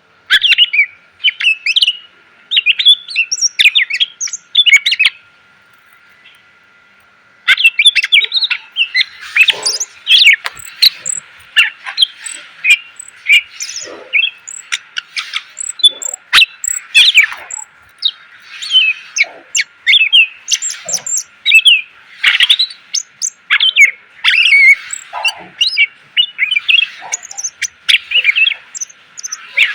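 Cucak ijo (green leafbird) singing a fast, varied song of chirps, trills and whistles packed with mimicked phrases. It sings a burst, pauses for about two seconds, then sings almost without a break, over a faint steady high hum.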